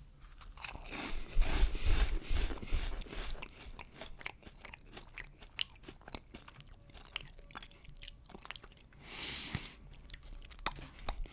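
A person biting into and chewing crunchy cheese puffs close to the microphone, with a run of loud crunches in the first three seconds and then quieter, scattered chewing.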